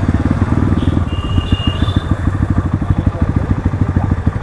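Crossfire RM250 dirt bike's engine running while riding. The beat eases off to a slower, distinct pulse after about a second as the throttle comes back.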